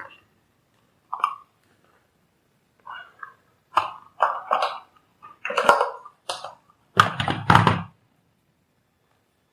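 A string of short, irregular knocks and scuffs, with the two loudest and heaviest thumps about seven seconds in.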